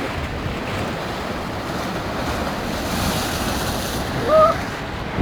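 Rough sea surf: waves washing and breaking without pause, with wind buffeting the microphone; the surf swells louder about three seconds in. A short cry rings out near the end.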